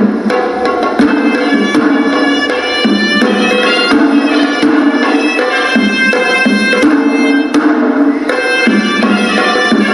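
Hewisi temple music: a horanewa, the Sri Lankan double-reed shawm, playing a melody in long held notes over a steady beat of drums.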